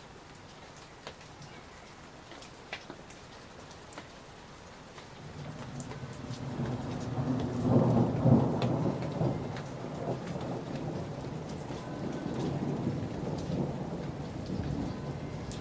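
Summer thunderstorm: rain pattering with scattered drop ticks, then a long roll of thunder that builds about five seconds in, is loudest a few seconds later, and keeps rumbling on.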